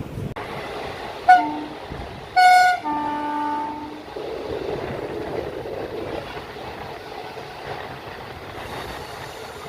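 Train horn sounding twice: a short toot, then a louder, longer blast about a second later that drops to a lower tone. Steady rumble of the train running underneath.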